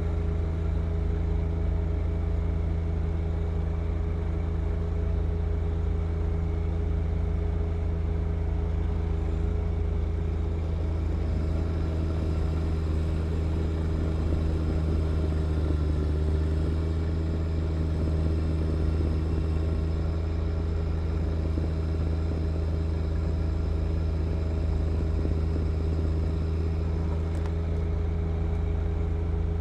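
John Deere 1025R compact tractor's three-cylinder diesel engine running steadily at working speed while driving a snow blower, a constant low drone with no rises or falls.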